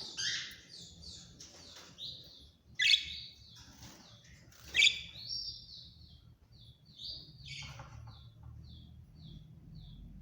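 Parakeets chirping: a run of short high chirps, two sharp loud calls about three and five seconds in, then a string of brief, evenly spaced chirps at about two a second.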